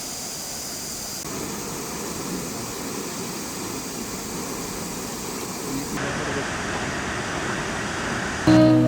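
Steady rushing noise of a waterfall, its tone changing abruptly twice. Acoustic guitar music comes in just before the end.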